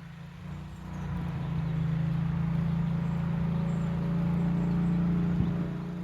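A steady low mechanical hum that grows louder about a second in and then holds steady.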